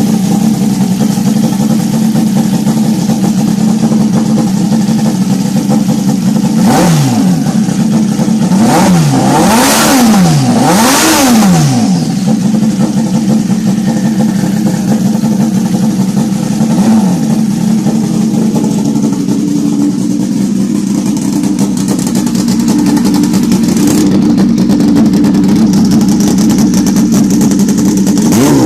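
Motorcycle engine idling steadily, then blipped about four times in quick succession, each rev rising and dropping back to idle, with one more small blip a few seconds later.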